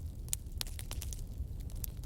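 Wood fire burning in a fireplace: a steady low rumble of the flames with irregular sharp crackles and pops, about five or six in two seconds.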